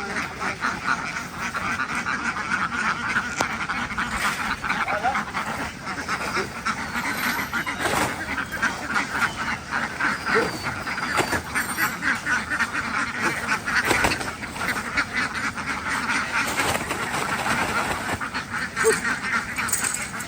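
A large flock of domestic ducks quacking continuously, many calls overlapping into a dense, steady din.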